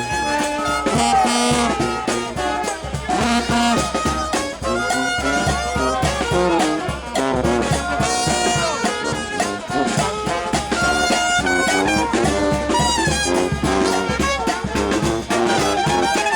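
New Orleans brass band playing a second-line tune, with horns over a steady drum beat.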